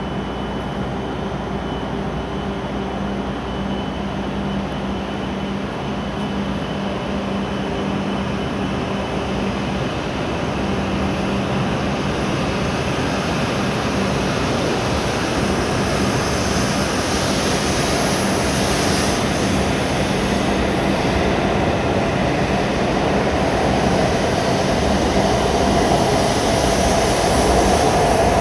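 Hokuriku Shinkansen W7 series train pulling out of the station, its running noise growing steadily louder as it gathers speed.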